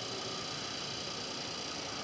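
Steady outdoor background: an even high-pitched hiss with a few faint, steady high tones running through it, and no sudden sounds.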